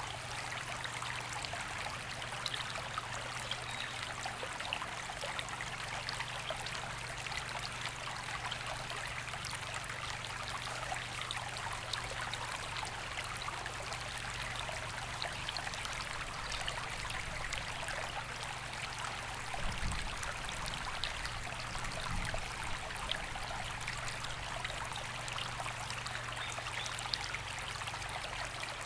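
A river flowing in a steady, even rush of water. Two brief low thumps come about two-thirds of the way through.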